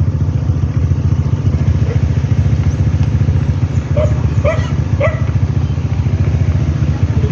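Motorcycle engine running steadily, with a dog barking about three times in the middle.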